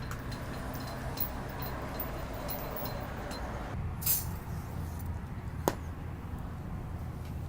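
Steady low background rumble with faint light ticks, a brief hiss about four seconds in and a single sharp click near six seconds.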